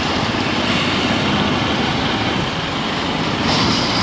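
Motorcycle running steadily on the road, its engine hum mixed with wind rush on the rider's microphone.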